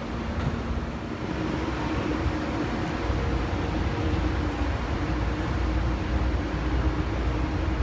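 Diesel locomotive running steadily: a low rumble with a steady hum that grows stronger about a second and a half in.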